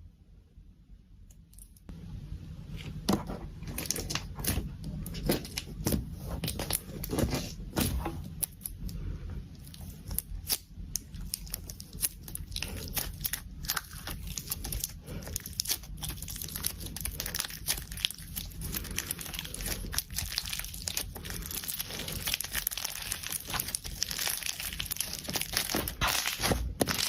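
Slime being squeezed and stretched by hand, giving a dense, irregular run of crackling and crinkling clicks that starts about two seconds in.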